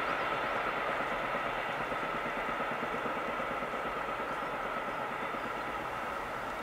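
A train running away along the line, its steady rolling rumble and rail noise slowly fading. A few faint bird chirps sound over it.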